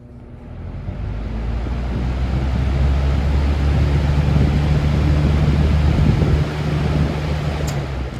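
Box fan running: a low motor hum and a rush of moving air build over the first few seconds as the blades speed up, hold steady, then ease off a little near the end.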